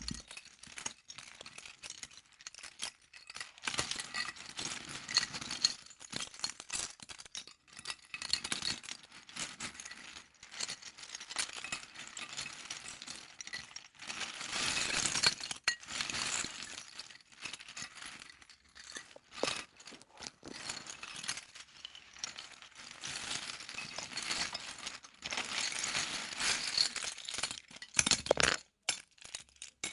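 Plastic LEGO pieces rattling and clicking as they are handled and sifted, with many small sharp clicks and denser stretches of rattling.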